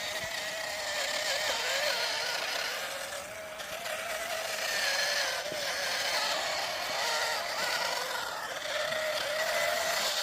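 Remote-control toy tractor's small electric motor and gearbox whining as it drives, the pitch wavering slightly up and down with speed.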